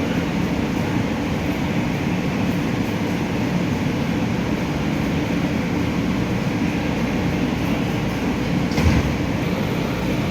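A steady low mechanical rumble, with a single knock near the end.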